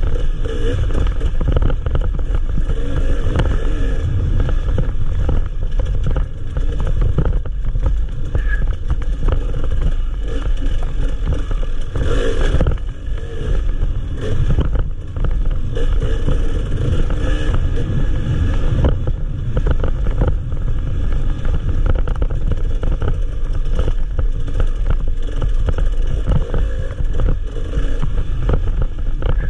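Enduro motorcycle engine running hard as the bike is ridden along a dirt trail, its revs rising and falling with the throttle, over a heavy low rumble.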